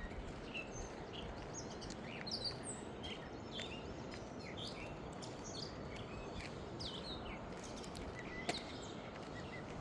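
Songbirds chirping at dawn: many short, scattered chirps and tweets, high-pitched, over a steady background hiss. A single sharp tick about eight and a half seconds in.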